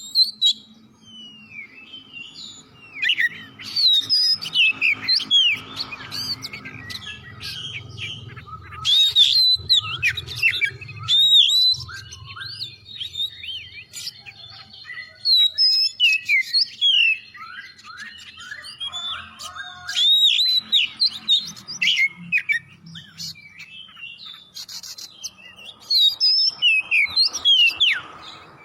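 Oriental magpie-robin (kacer) singing vigorously: a long, varied string of quick whistles and chattering notes in phrases broken by short pauses.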